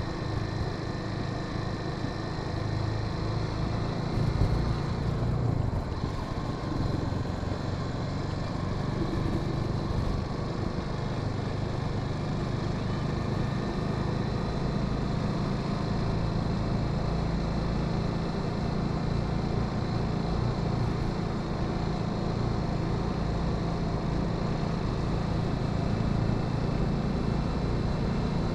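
Honda Sahara 300 single-cylinder engine running steadily while riding, its note shifting briefly about five seconds in.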